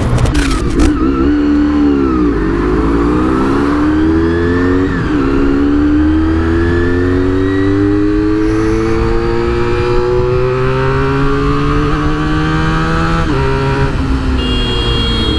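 Motorcycle engine accelerating through the gears: the pitch rises and drops back at shifts twice in the first five seconds, then climbs slowly for several seconds before easing off near the end.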